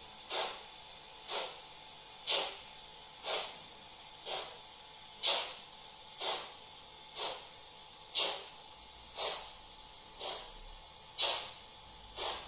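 Model steam-locomotive sound from an ESU LokSound 5 decoder, played through the model's own Märklin loudspeaker: even, hissing steam puffs about once a second, each fading quickly.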